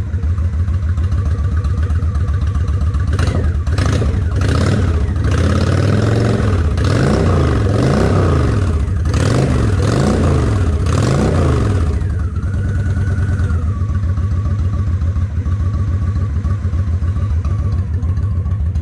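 Honda Shadow ACE 750's V-twin engine running, now firing on both cylinders after a partly clogged carburetor was cleaned. The throttle is blipped several times, the revs rising and falling, and then it settles back to a steady idle for the last several seconds.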